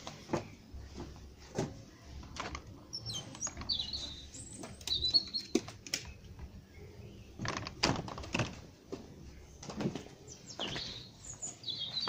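Garden birds chirping, several short high calls a few seconds in and again near the end, over scattered sharp clicks and knocks as a uPVC patio door is opened and handled.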